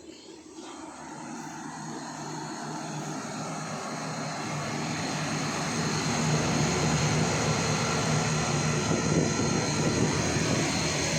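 Pool heat pump running: its fan spinning up and growing louder over the first few seconds, then holding a steady whoosh over a low hum.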